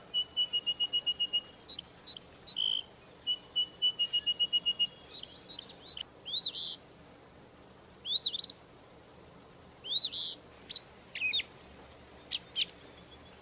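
Songbirds singing: two rapid trills of evenly repeated high chirps in the first few seconds, then a series of separate short, upward-sliding whistled notes and chirps.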